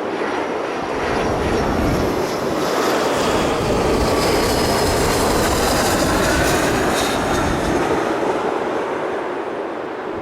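Boeing 777-200LR's twin GE90 jet engines during landing: a loud engine noise with high whining fan tones. It builds about a second in, is loudest around the middle and eases off near the end.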